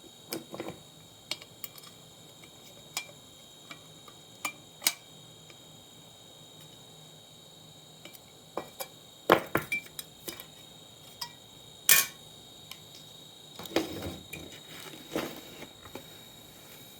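Scattered clicks, clinks and knocks of small tools and metal and plastic parts being handled, with some rustling near the end; the sharpest knocks come a little past halfway through.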